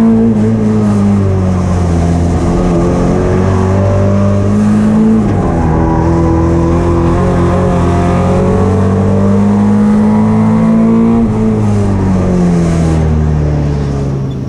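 Folkrace car's engine running hard at high revs, heard from inside the stripped cabin. The revs dip about five seconds in, climb again, then fall away near the end.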